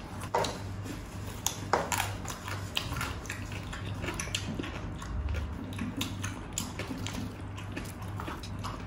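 Chewing and crunching of crispy pata (deep-fried pork knuckle): an irregular run of sharp crackles and clicks, with light clatter of hands and a spoon on plates.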